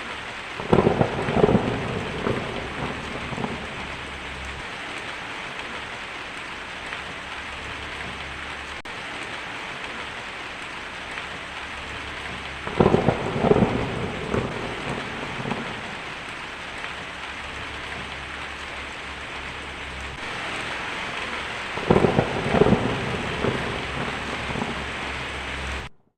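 Steady heavy rain hiss with three rolls of thunder about ten seconds apart, each starting with a loud crack and rumbling away over a few seconds.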